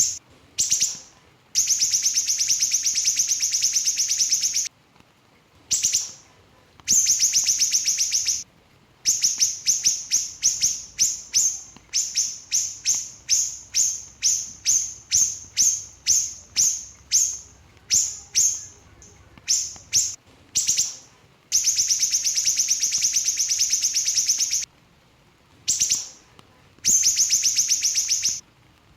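A small siri-siri bird singing in high-pitched, very rapid trills. Long buzzy runs of one to three seconds alternate with a string of short quick phrases, about two a second, in the middle stretch.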